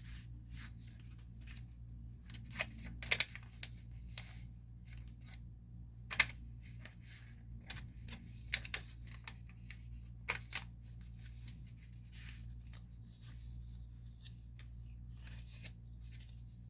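Paper rustling and light clicks as the pages and paper pieces of a handmade junk journal are handled and turned, in scattered short bursts with a few sharper crackles, over a steady low hum.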